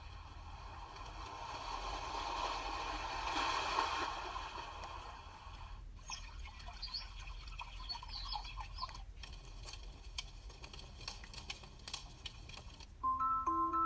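White noise machine's speaker playing its preset sounds one after another: a steady rushing, water-like track, then about six seconds in a track of short high chirps, then another change about nine seconds in. Near the end a chiming melody starts.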